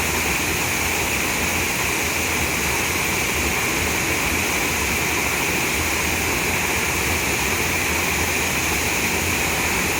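Waterfall pouring into a pool, a steady rushing of water with no change.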